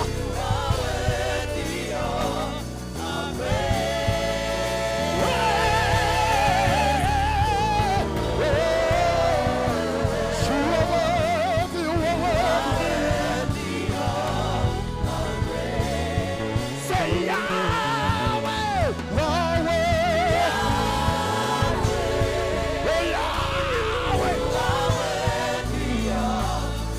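Gospel worship music: a band with bass and keys plays while singers hold long notes with vibrato, as in a choir or worship team singing a praise song.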